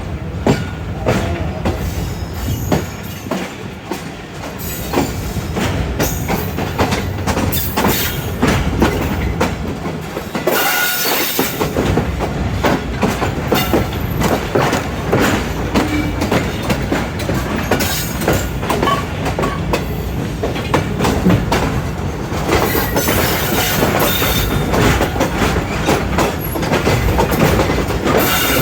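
Train rolling past, its wheels clattering over rail joints and points in a steady run of clacks. Brief higher screeches come in twice, once a little before the middle and again near the end.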